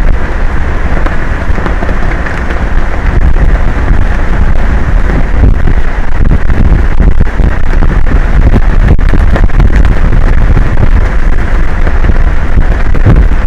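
Strong wind buffeting an outdoor camera microphone: a loud, continuous low rumble with gusty, uneven loudness and a hiss on top.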